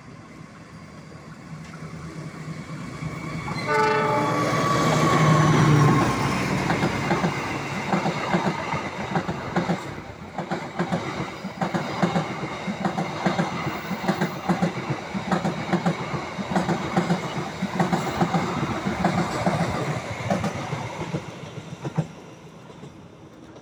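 Diesel locomotive-hauled passenger train running through a station. The engine drone builds as it approaches, the horn sounds for about two seconds about four seconds in, and then the coaches pass close with a fast, even clatter of wheels over the rail joints. The clatter fades and cuts off shortly before the end.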